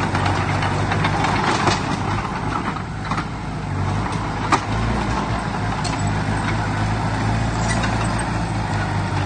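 Heavy earthmoving machinery's diesel engine running steadily, with a few scattered knocks and clanks; the sharpest comes about four and a half seconds in.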